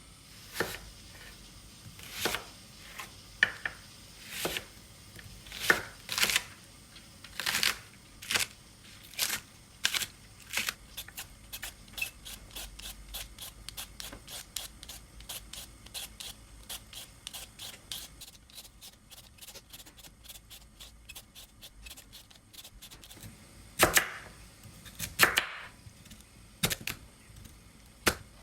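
Knife chopping food on a cutting board: separate sharp chops at first, then a fast, lighter run of rapid chopping at about four to five strokes a second, then a few loud chops near the end.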